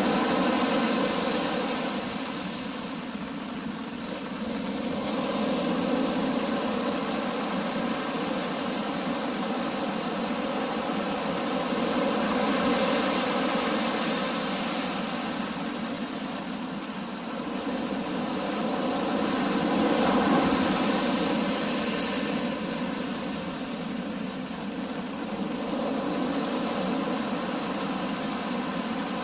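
Storm surf and wind: a loud rushing noise that swells and fades every six to eight seconds as waves break, over a faint steady hum.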